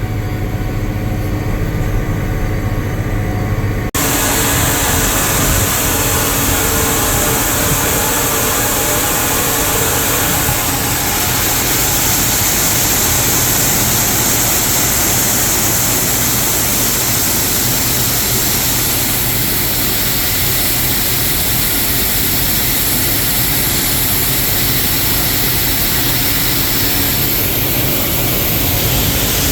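Farm tractor's diesel engine running under load while planting, a steady hum at first. About four seconds in the sound changes abruptly to a louder, even rushing noise of engine and air.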